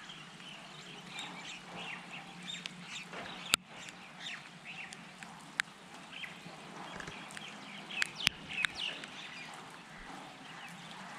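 Birds calling and chirping, with a few sharp clicks, over a faint steady hum.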